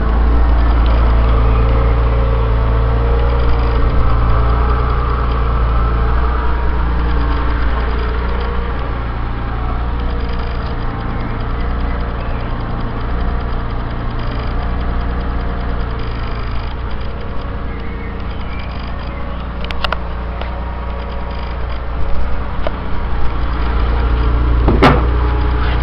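Porsche Boxster S 3.2-litre flat-six engine idling steadily after a blip of the throttle. Two brief clicks come near the end.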